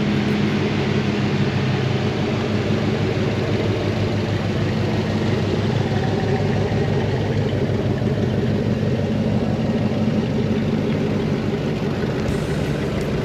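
A car engine idling steadily, with a low, even hum.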